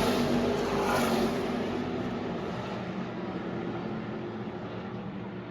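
A pack of NASCAR Camping World Truck Series trucks' V8 engines passing and fading away down the track, loud at first and dying down steadily.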